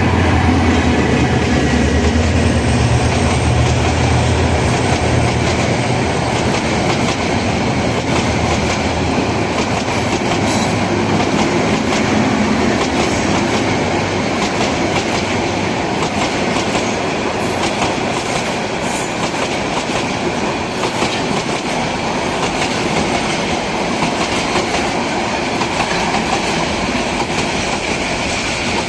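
A diesel-hauled passenger train passing close by. A low engine drone dies away in the first few seconds, then the coaches roll past, their wheels clacking steadily over the rail joints.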